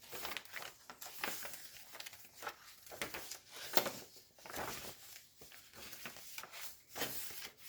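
Pages of a thick handmade paper journal being turned and handled: soft, irregular paper rustling and brushing.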